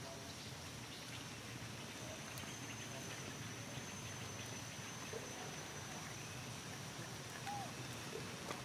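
Outdoor forest ambience: a steady high-pitched insect drone over a soft hiss, with a few faint short animal calls.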